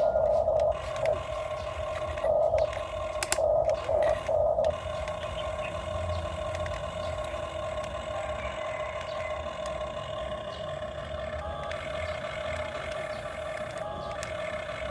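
Excavator working with a steady mechanical whine over a low rumble, swelling louder in four short surges in the first five seconds, as if straining under load.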